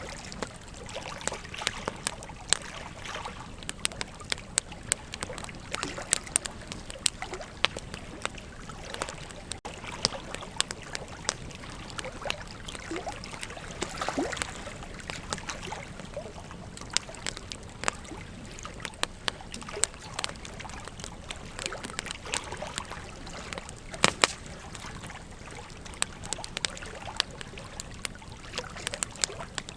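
Wood campfire crackling, with irregular sharp pops and snaps, over the steady rush of a flowing river.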